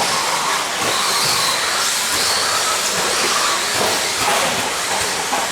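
Electric brushless RC stock trucks racing on a clay off-road track: a steady hiss of tyres and motors, with faint motor whines rising and falling.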